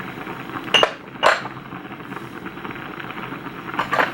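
A kitchen utensil clinking against a pot of soup three times, short sharp knocks about a second in, half a second later, and near the end.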